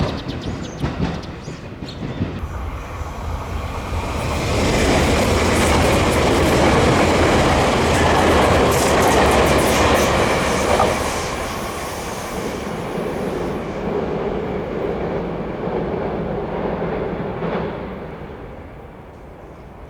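Tobu 200 series electric train passing: wheel-on-rail clatter and running noise that swell to a peak around the middle, then fade away. Over the first couple of seconds there is rhythmic clickety-clack from a different train.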